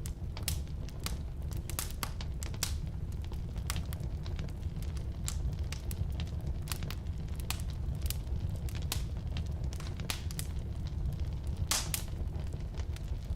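Firewood burning in a fireplace or wood stove: a steady low rumble of flame with frequent irregular sharp pops and crackles, one louder pop near the end.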